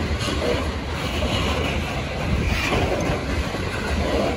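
Freight train of tank cars rolling past close by: a steady rumble and clatter of steel wheels on the rails.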